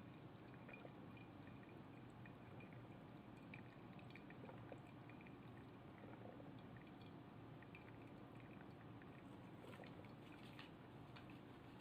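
Faint sound of a Miniso single-cup drip coffee maker brewing, with coffee dripping and trickling into the glass and scattered small ticks.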